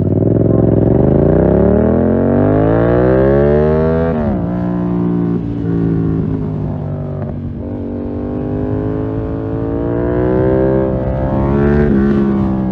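2020 Yamaha MT-07's parallel-twin engine through a full SC-Project 2-1 exhaust, revving up for about four seconds before the revs drop sharply. It then runs at lower, wavering revs, rising again and falling off near the end.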